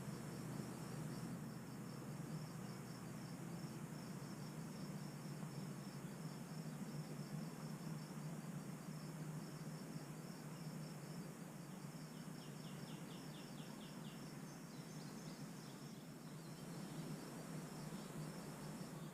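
Summer insects chirping in steady, rhythmic high-pitched pulses, with a second, lower insect trill of about ten quick pulses about two-thirds of the way in, over a steady low rumble.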